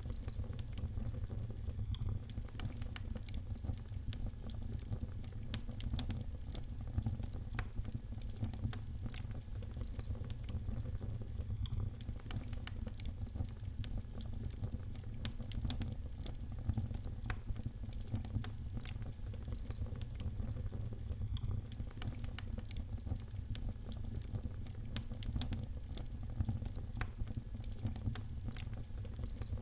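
Wood fire crackling in a fireplace: many small, sharp pops and snaps at irregular moments over a steady low rumble of the burning fire.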